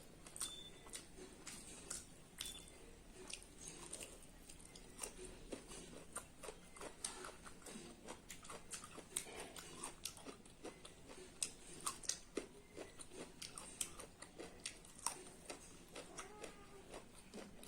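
Quiet close-miked eating: soft chewing with many small mouth clicks and taps, scattered irregularly throughout.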